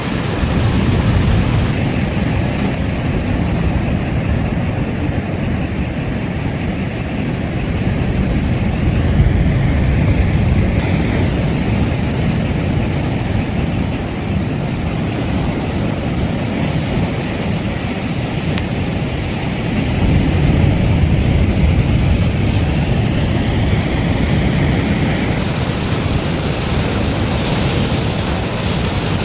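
Ocean surf washing on a beach: a steady low rush that swells about eight seconds in and again about twenty seconds in.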